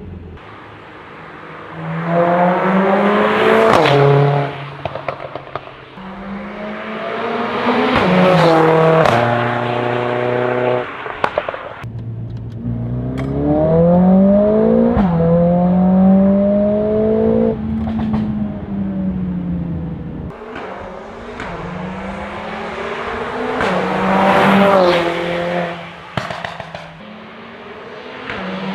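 Mercedes-AMG A45 S's turbocharged 2.0-litre four-cylinder through an Armytrix exhaust, pulling hard four times. Each time the pitch climbs and drops back in steps as it shifts up through the gears. Sharp crackles and pops come from the exhaust when the throttle closes between pulls.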